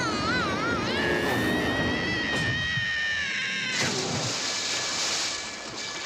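Cartoon sound effects: a high, wavering tone that settles into one long held note. About four seconds in it gives way to a brief rushing whoosh.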